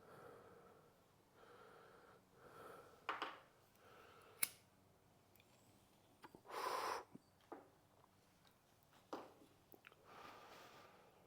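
Faint handling sounds while working on a bike: a few sharp clicks and knocks and a brief hiss or rustle about two-thirds of the way through, otherwise near silence.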